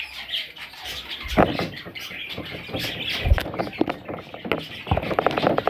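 Budgerigar chicks giving short, high chirps and rasping squawks, with a low thump about three seconds in.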